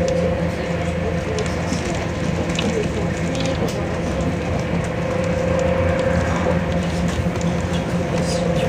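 Passenger train running, heard from inside the carriage: a steady rumble with a constant hum and a steady mid-pitched whine, with faint ticks and rattles here and there.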